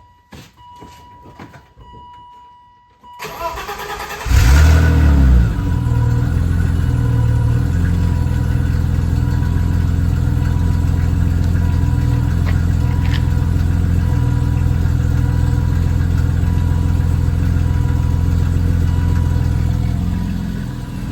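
Cold start of a 1988 BMW 325i E30's 2.5-litre straight-six. A few faint clicks, then the starter cranks about three seconds in and the engine catches with a loud flare of revs. It then settles into a steady idle that eases down a little near the end.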